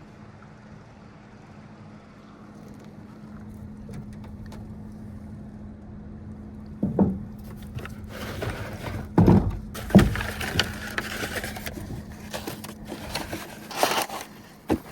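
Gear being handled while setting up camp: several heavy thumps and knocks with scraping, starting about halfway through, over a steady low hum.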